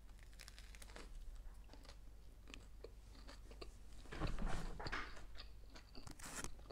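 Close-up crunching and chewing of a grill-toasted sandwich: small crisp crackles of the toasted bread, with a louder stretch of chewing about four seconds in.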